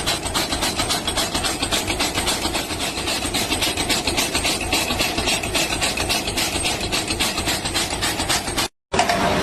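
A machine running with a fast, even clatter of clicks that cuts off abruptly near the end.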